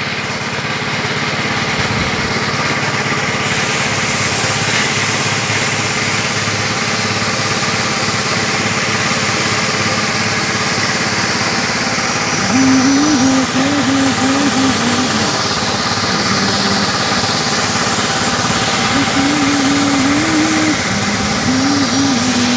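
Small engine running steadily, with a wavering higher tone that comes in twice in the second half.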